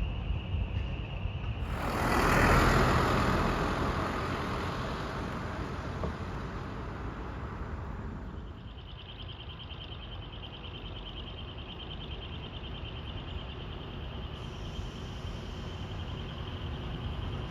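A large truck drives past with engine rumble; a loud rush starts suddenly about two seconds in and fades over the next several seconds. Engine rumble carries on underneath, and a steady pulsing insect chirp comes up in the second half.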